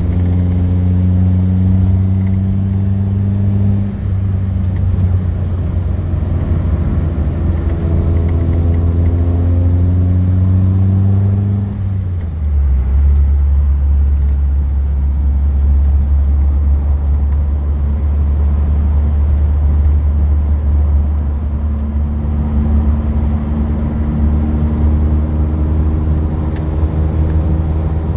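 Car engine and road rumble from a car on the move. The engine note climbs twice under acceleration, drops about 12 seconds in, and later settles into a steadier run.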